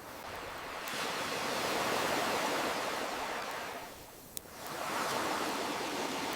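Ocean waves washing in and drawing back in two swells. A single sharp pop from a crackling wood fire comes about four seconds in, during the lull between them.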